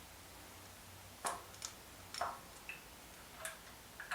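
A handful of light, irregularly spaced metallic clicks and clinks from metal engine parts and tools being handled during cam phaser gear removal, over a faint steady hum.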